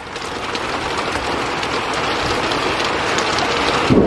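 Thunder rolling in over heavy rain, a rumble that builds steadily louder and breaks into a loud clap near the end.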